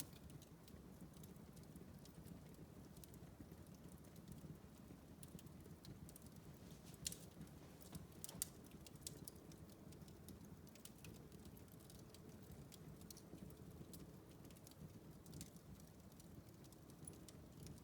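Wood fire crackling in a fireplace: faint scattered pops and snaps over the low, steady rumble of the flames, with two louder pops close together a little before halfway.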